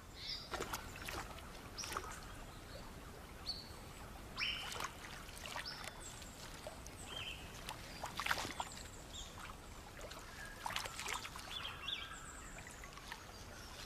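River ambience: water splashing and trickling in short bursts every second or two, with scattered short bird calls.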